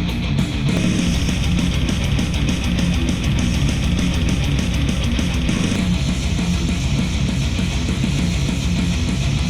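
Instrumental rock music with electric guitar and drums, played back through KEF wireless speakers and picked up by microphones in the room. A steady high ticking pattern drops out about six seconds in.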